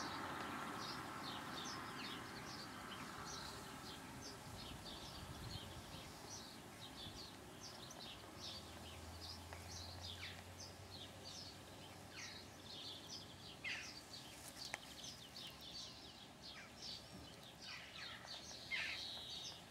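Faint birdsong: many small birds twittering in quick, short, high chirps, with a couple of louder calls near the end.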